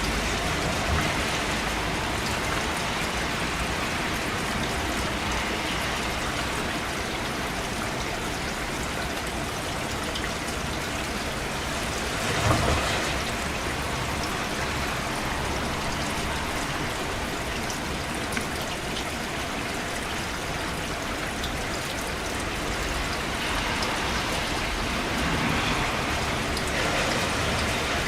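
Steady rain falling and pattering on surfaces, an even dense hiss with a brief louder swell about twelve seconds in.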